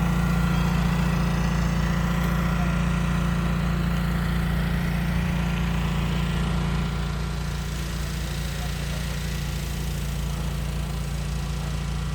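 A small engine running steadily at a constant speed, a continuous low hum that drops a little in level about seven seconds in.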